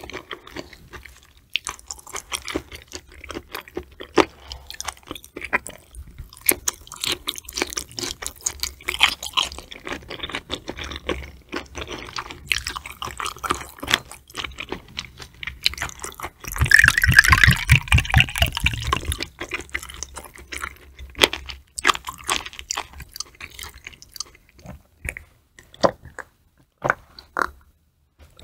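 Close-miked wet chewing and mouth clicks of someone eating raw tuna sashimi. About halfway through there is a louder, denser stretch with rapid low pulses.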